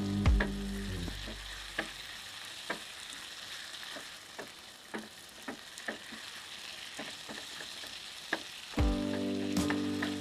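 Sliced okra sizzling as it fries in a nonstick pan, stirred with a silicone spatula that gives scattered light taps and scrapes against the pan. Background music fades out about a second in and comes back near the end.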